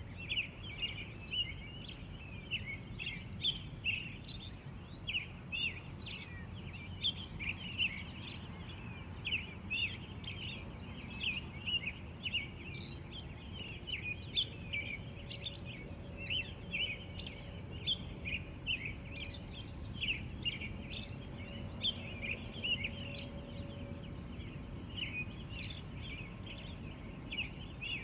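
Dawn chorus of wild birds: many short chirps overlapping without a break, over a steady high-pitched hiss and a low background rumble.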